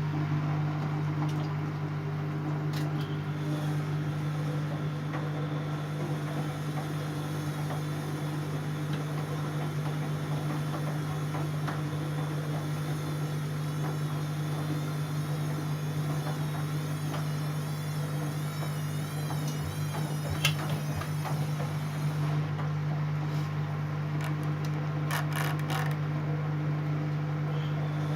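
Siemens Siwamat C10 washing machine running with a steady mechanical hum. A sharp click comes about twenty seconds in, and a few lighter clicks come near the end.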